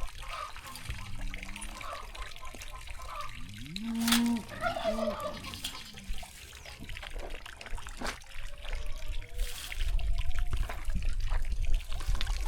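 Water trickling and pouring out of a tipped-up livestock water container as it is emptied, draining steadily.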